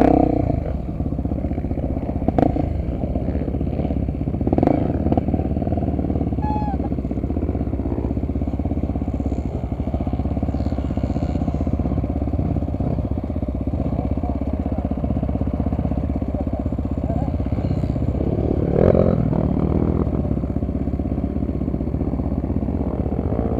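Honda XR250 Tornado trail motorcycle's single-cylinder four-stroke engine running steadily while riding, with a few brief louder swells.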